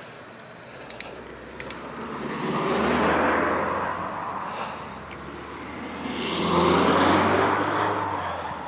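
Two cars passing one after the other on a narrow road, each rising and fading with engine and tyre noise, the first loudest about three seconds in and the second about seven seconds in.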